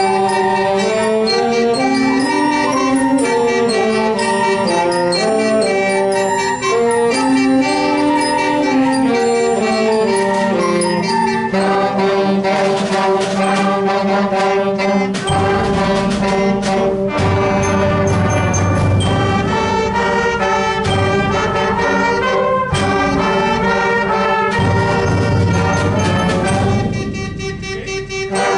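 School concert band playing a brass-led piece: a melody moves over a steadily held note. About halfway through, a fuller low part with sharp strikes joins in, and the sound thins briefly near the end.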